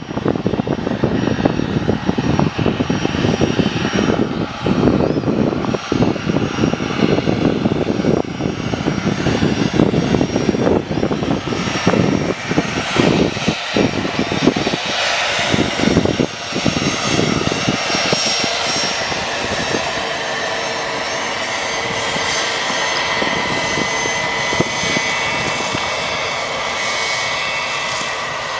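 Bombardier aircraft engines running. The sound is rough and fluctuating for the first half or so, then settles about halfway into a steadier sound with high whining tones.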